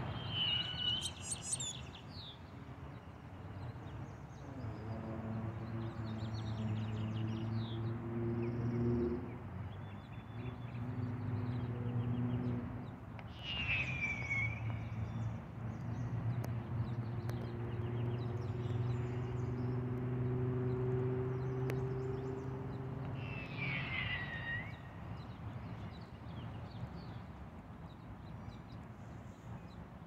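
Outdoor ambience with three short, downward-sweeping bird chirps spread out, over a steady low hum that fades out after the last chirp.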